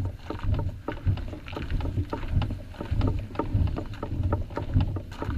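Footsteps on a portage trail, an irregular run of low thuds about twice a second, with small sharp clicks and knocks of carried gear.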